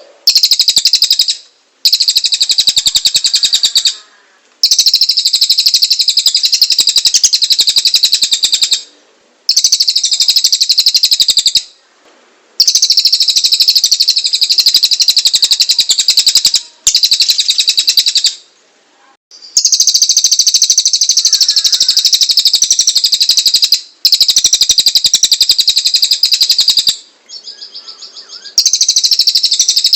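Cililin songbird singing continuously in long, loud phrases of very rapid high notes, each phrase a few seconds long and broken by short pauses. This is the rough, rapid-fire 'shot' style of song prized in a master recording for training other songbirds.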